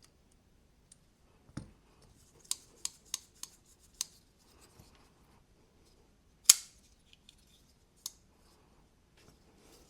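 Sharp metallic clicks and snaps of a Giant Mouse Ace Jutland folding knife being worked open and closed while its pivot tension is adjusted. A quick cluster of clicks comes in the first few seconds, and the loudest snap comes about six and a half seconds in.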